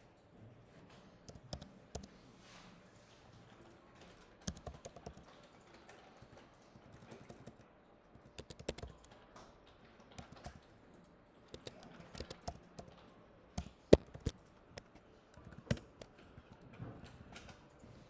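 Typing on a computer keyboard: irregular keystrokes in short runs with pauses between, the loudest stroke about 14 seconds in.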